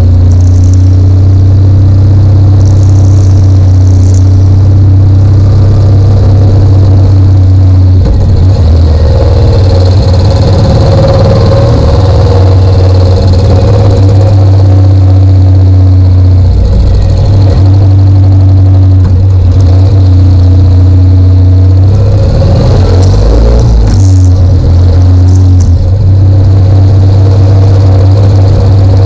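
Motorcycle engine running close by, very loud, holding a steady low note and changing speed a few times as it is revved.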